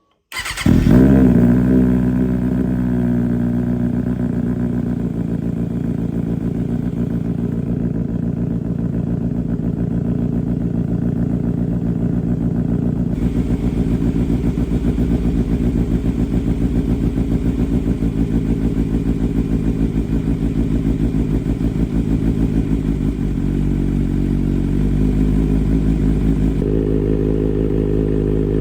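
2024 Kawasaki ZX-6R's inline-four starting and idling on a cold start, exhausting through an SC Project slip-on with the mid muffler swapped for an eBay link pipe, which makes it much louder. It catches suddenly about half a second in with a brief flare, then settles into a steady idle whose note shifts slightly near the end.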